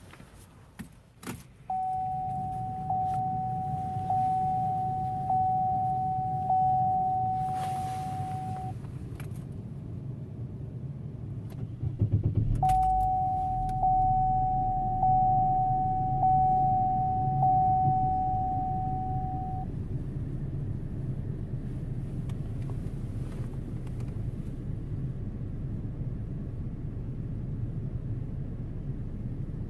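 Chevrolet Cruze/Sonic switched on and started after its purge solenoid was replaced. A couple of key clicks are followed by six evenly spaced warning-chime dings. The engine cranks and catches about 12 seconds in, six more chime dings sound, and it settles into a steady idle.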